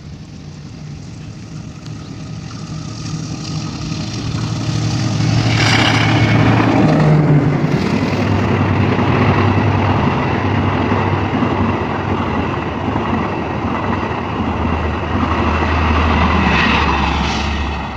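Diesel-hauled passenger train passing close by. The rumble of the wheels and engine builds over the first five seconds and then stays loud, with a falling tone about six seconds in and a low steady engine hum underneath.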